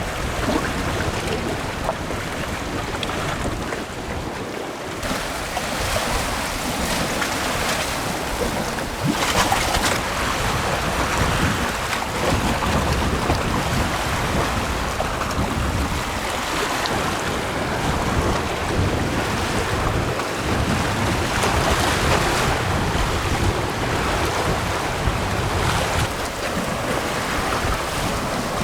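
Sea waves washing onto the shore with wind: a continuous rushing noise that swells and eases every few seconds.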